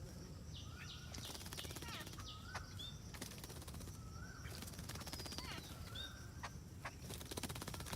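Several birds calling outdoors: short whistled and chirping notes, some gliding up or down, repeated throughout over a steady low background rumble.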